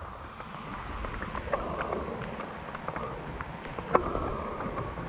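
Steady rain on jungle foliage, with scattered light taps and one sharper knock about four seconds in.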